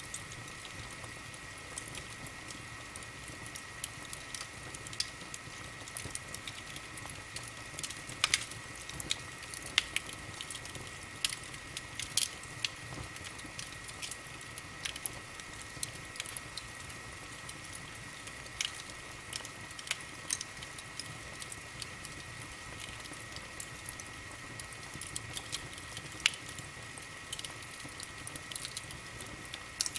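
Wood fire burning in a fireplace, crackling with irregular sharp pops and snaps over a low hiss. A faint steady high whine runs underneath.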